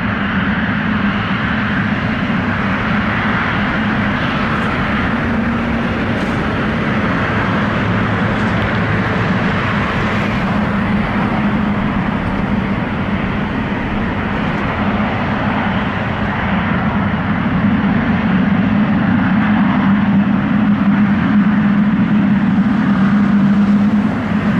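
Boeing 777's jet engines running at low power during taxi and line-up onto the runway: a steady drone with a low hum, growing slightly louder in the last several seconds.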